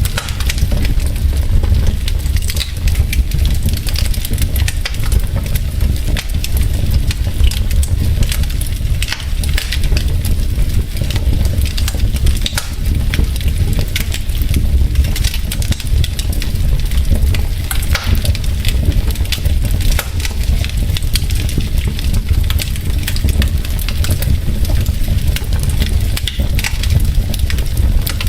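Wood fire of burning logs in a fireplace, crackling with many small sharp pops over a steady low rumble of flames.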